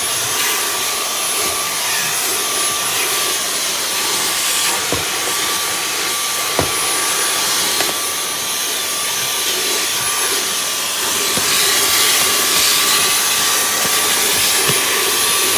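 Dyson V11 cordless stick vacuum with the crevice tool fitted, running steadily while vacuuming a car interior, with a steady high whine and a few light knocks.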